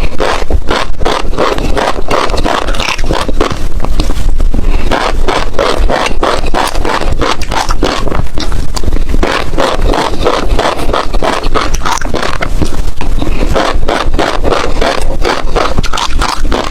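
Passion fruit seeds being chewed and crushed between the teeth: a dense, loud run of crisp crunches and crackles.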